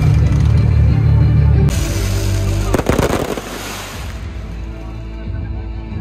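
Fireworks and firecrackers going off, with a dense rapid crackle about three seconds in and another burst near the end, over music.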